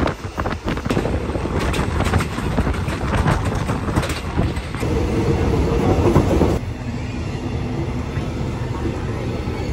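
Passenger train running on the rails, heard from an open carriage window: a loud rumble with wind and rapid wheel clatter. About two-thirds through it drops abruptly to a quieter, steadier rumble.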